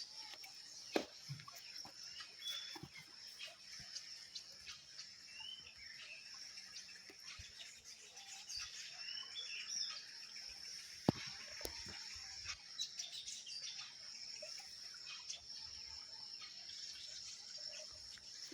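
Faint outdoor ambience: a steady high-pitched insect drone with birds chirping now and then, and a few sharp taps or clicks, the loudest about a second in and a little past the middle.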